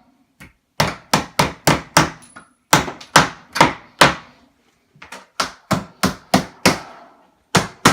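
A hammer driving protruding nails flush into an old wooden window frame: about twenty sharp blows, struck in quick runs of three to five with short pauses between.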